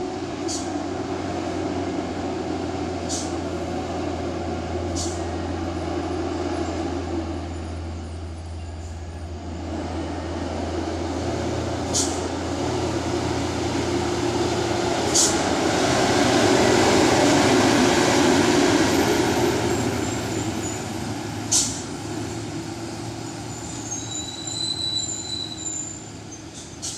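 Loaded dump trucks' diesel engines running on a steep downhill. The sound swells as a truck passes about 16 to 19 seconds in, and there are several short sharp clicks or hisses along the way.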